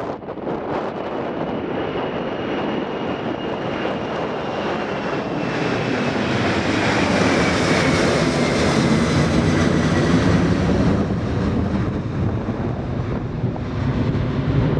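Jet airliner passing by, its engine noise swelling to a peak around the middle and then easing, with a thin engine whine that slowly falls in pitch as it goes by. Wind buffets the microphone.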